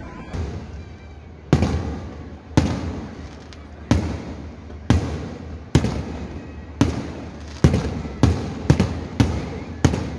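Aerial firework shells bursting overhead: a run of about a dozen sharp bangs, each with a rolling echo, about one a second at first and coming faster near the end.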